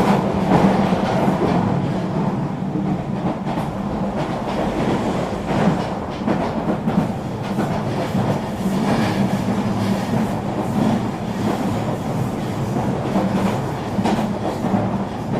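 Eurobahn regional train running steadily along the line: a continuous rumble of wheels on rail, with occasional faint clicks of the wheels over rail joints.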